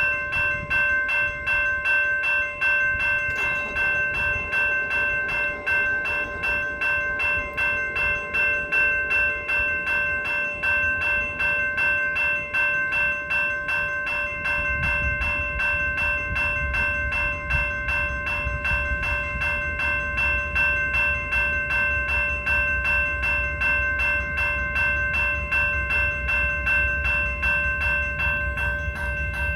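Railroad crossing warning bell ringing continuously in rapid repeated strokes. About halfway through, the low rumble of the approaching Union Pacific train joins it.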